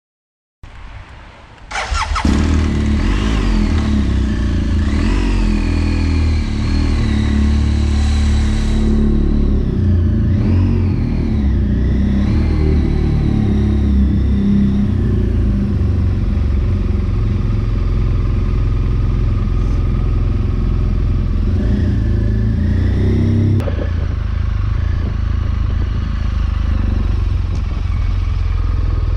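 BMW R 1200 GS motorcycle's boxer-twin engine starting: it catches about two seconds in and keeps running loudly, its pitch rising and falling a few times as the throttle is blipped.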